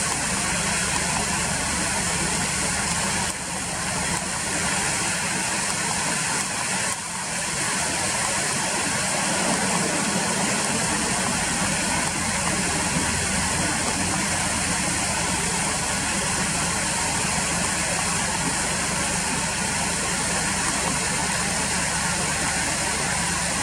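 Steady rushing noise of flowing river water, even and unbroken, with two brief slight dips about three and seven seconds in.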